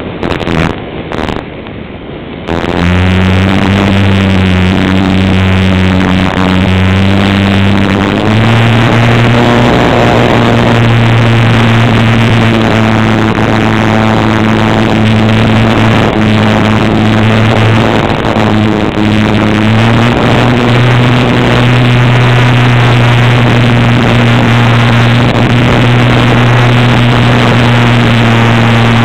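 Cessna light aircraft's piston engine and propeller running with power increasing: the engine is quieter for the first couple of seconds, then becomes loud and steady, and its pitch steps up about eight seconds in and again slightly around twenty seconds.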